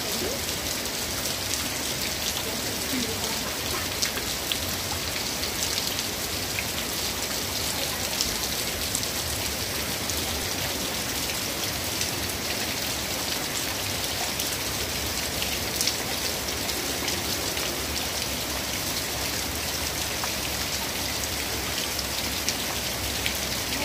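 Steady rain falling on a wet concrete yard and puddles: a constant hiss with scattered sharper ticks of single drops.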